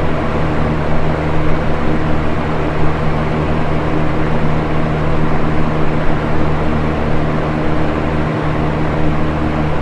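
Electric box fan running steadily: a constant whoosh of moving air over a low motor hum.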